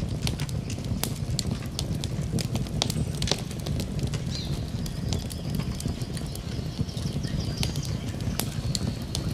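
Campfire burning, with irregular crackles and pops over a steady low rumble. A faint, thin high tone runs through from about four seconds in.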